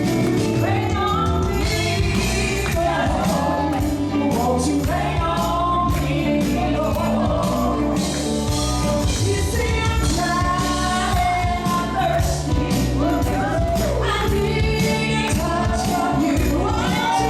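Gospel worship song: voices singing over a band with a steady percussion beat.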